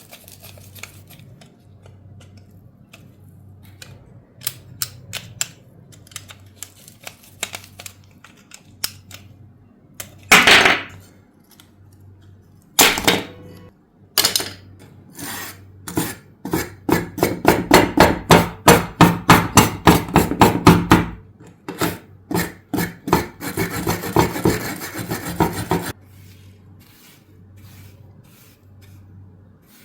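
Hand tools working the metal body of a die-cast toy car. Scattered taps and clicks come first, then a run of quick strokes at about three a second, then a few seconds of scraping that stops suddenly.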